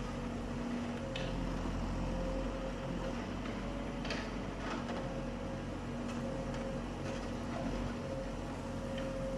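Diesel engine of heavy machinery running steadily, a constant hum with a few faint knocks.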